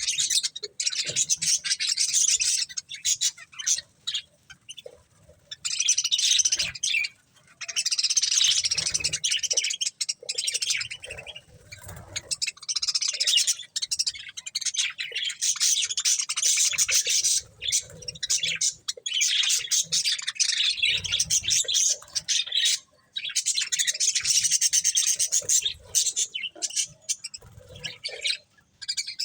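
Budgerigars chirping and chattering in busy bursts of a few seconds, with short breaks between them.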